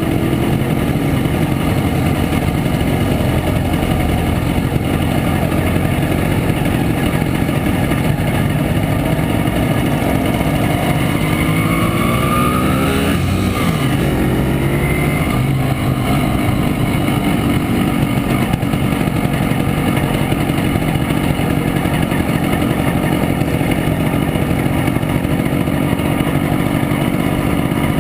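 1967 Montesa Impala Comando 175 cc two-stroke single running steadily under way, with wind noise. A brief pass-by sound, like another vehicle going past, comes about halfway through.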